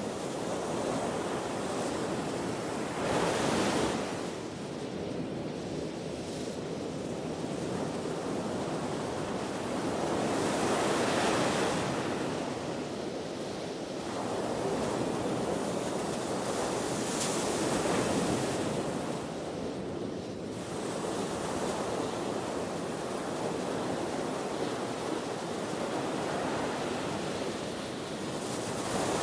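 Ocean waves breaking and washing on the shore, with a louder surge every several seconds, under steady wind.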